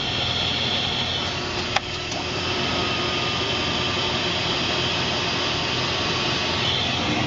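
Steady rushing noise inside an Embraer Phenom 100 jet's cockpit, even in level throughout, with a single sharp click a little under two seconds in.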